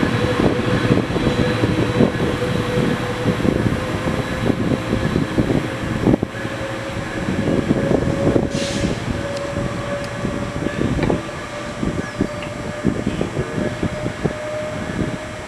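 Train moving along the track: irregular knocking and rattling of wheels, with a steady whine that slowly rises in pitch and a brief hiss about halfway through.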